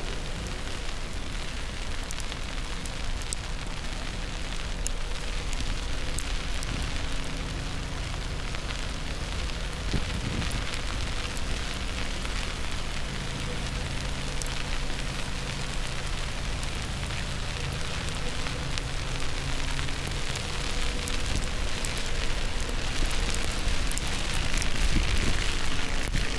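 Steady hiss of a snowstorm on a city street, with a low, steady hum of vehicle engines underneath and scattered light ticks.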